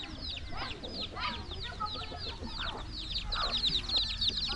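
Chicks peeping in a rapid run of short, high, falling peeps. The peeps come faster and louder toward the end.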